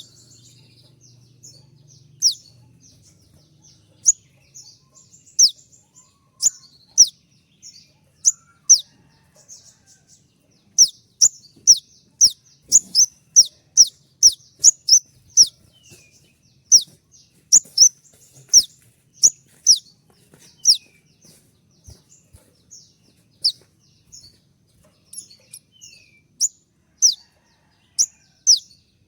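Konin (kolibri ninja) singing its 'tembakan' (shooting) song: sharp, high chirps, each dropping quickly in pitch, fired in rapid runs of several a second with short pauses between runs.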